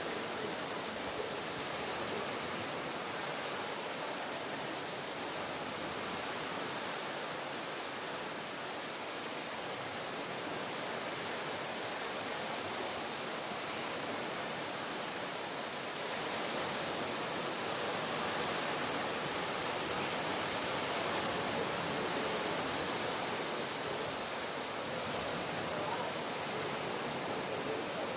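Steady hiss of distant sea surf, a little louder from about halfway through, with a few faint high chirps near the end.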